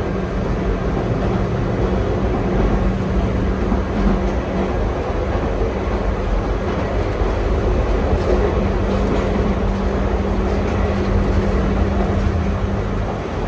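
Nankai 2200-series train running, heard from inside the carriage: a steady rumble of wheels on rail with a constant low hum.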